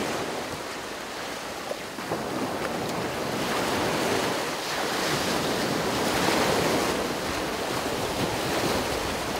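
Surf breaking and washing up the beach, swelling louder in the middle, with wind buffeting the microphone.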